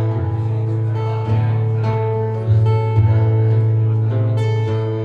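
Acoustic guitar strummed in the instrumental intro of a live song, the chords changing every second or so.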